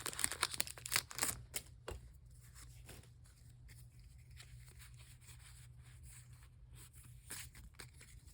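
Foil wrapper of a Pokémon booster pack crinkling and tearing loudly for the first two seconds or so. Quieter handling follows, with scattered small rustles and clicks.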